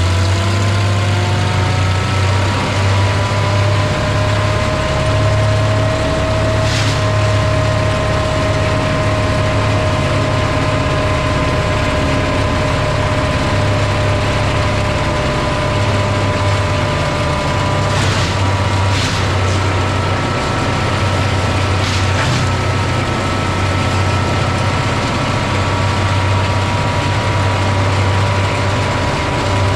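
1987 Vermeer 1600 woodchipper running at steady speed: a constant low engine drone with a whine that rises over the first few seconds and then holds steady. A few sharp cracks come through, around a quarter of the way in and three more later on.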